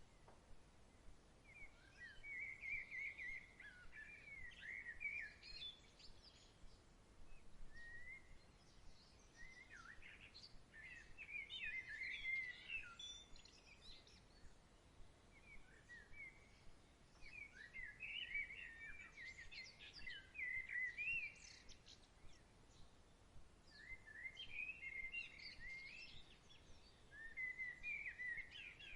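Faint songbird singing in four bouts of quick, chirping phrases over a soft steady outdoor hiss.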